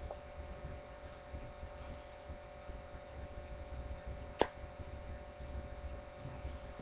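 Quiet room tone with a steady electrical hum and a low rumble, broken by a single sharp click about four seconds in.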